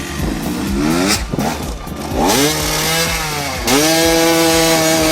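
Motocross motorcycle engine revving: short rising revs, then climbing to high revs and held there, with a brief break about three and a half seconds in.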